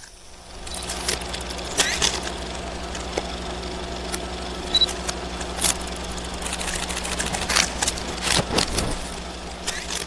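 A vehicle engine running steadily with a low drone, with scattered clicks and rattles over it.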